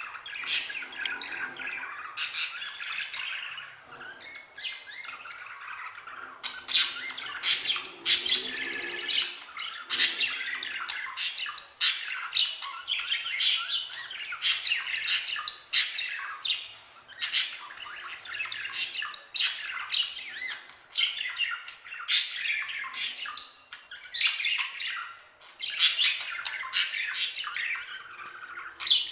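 Budgerigars chattering and warbling, the warble of a courting pair, with frequent sharp chirps and squawks scattered among it.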